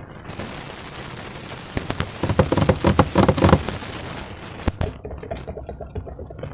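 Slime being squeezed and worked by hand with a wet, squishy crackle. About two seconds in, a burst of rapid crackling pops lasts about a second and a half.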